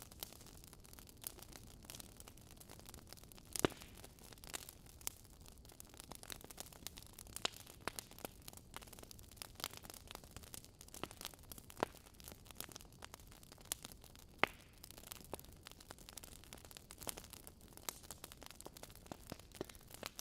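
Wood fire burning in a fireplace: irregular crackles and sharp pops over a soft hiss, with two louder pops, one about four seconds in and one near the middle.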